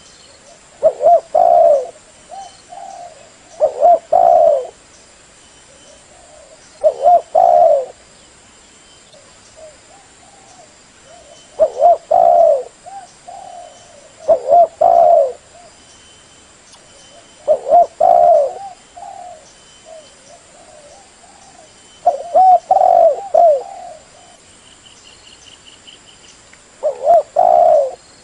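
Spotted dove (cu gáy) cooing: a female's call played as a lure for males, short groups of low coos repeating every three to five seconds.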